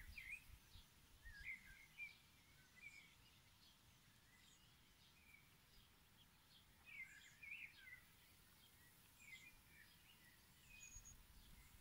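Near silence with faint, scattered bird chirps, a few near the start and a busier cluster about seven seconds in.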